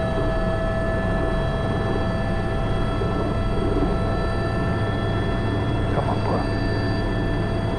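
Airbus H125 helicopter's turboshaft engine and rotor running steadily in a hover during a sling-load pickup, heard from the cockpit: a constant turbine whine over a dense rotor rumble.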